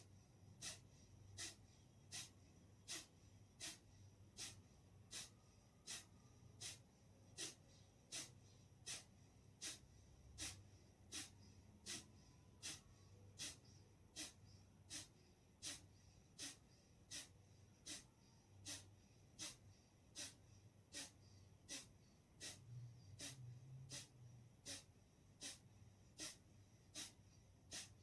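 Kapalbhati breathing: short, forceful exhalations through the nose in a steady, even rhythm, a little more than one a second.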